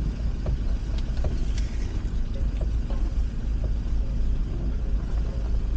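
Steady low road rumble inside a moving car's cabin, with a few faint light knocks now and then.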